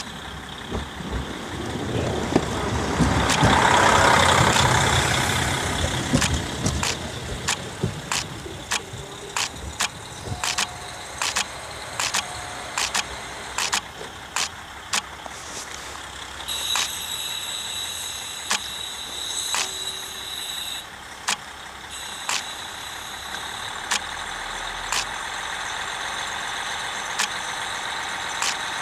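KiHa 40-series diesel railcar rolling through the station, its wheels clicking over rail joints, rapidly at first and then more slowly as it slows. A high-pitched squeal, typical of brakes, comes in about halfway through and stops, then returns briefly.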